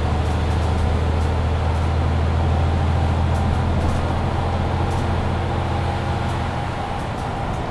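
Mercedes-Benz Citaro C2 hybrid city bus under way: diesel engine running with a steady low drone over road and drivetrain noise, easing off slightly near the end, with a few faint light ticks.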